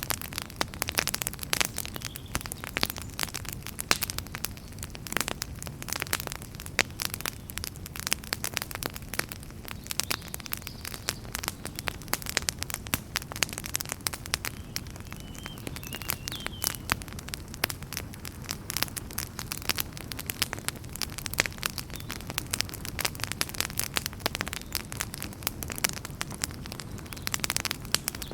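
Fire burning in a fireplace, crackling: frequent irregular sharp pops and snaps over a low steady rumble of the flames.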